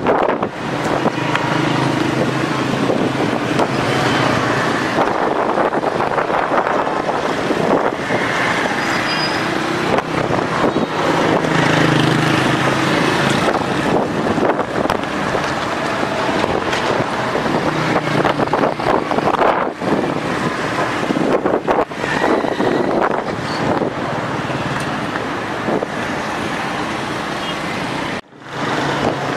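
Strong gusting wind of a dust storm rushing and buffeting the microphone, with road traffic running underneath.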